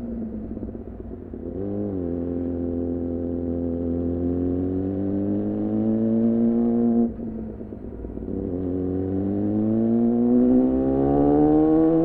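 2014 Yamaha R6 inline-four with an R9 titanium muffler and Leovince header, heard while riding: a quick throttle blip about two seconds in, then the revs climb steadily under load. The throttle snaps shut about seven seconds in and the revs drop, then climb again toward the end.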